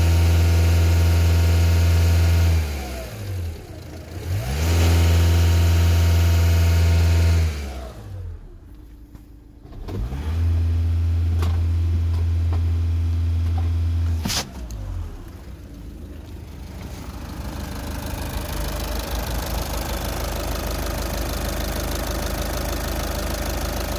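VW 2.0 TDI CBAB four-cylinder diesel with 510,000 km, revved up and held at high revs three times, falling back between, then settling to a steadier low idle with diesel clatter. A sharp click comes as the third rev is released.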